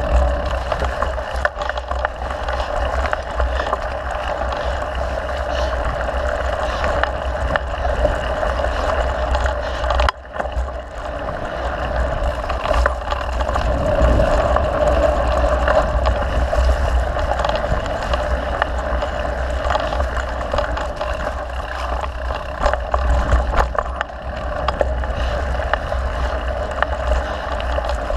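Mountain bike riding on a dirt trail: steady wind rush and rumble on the microphone with tyre noise, and frequent small rattles and knocks from the bike over bumps. The noise drops briefly about ten seconds in.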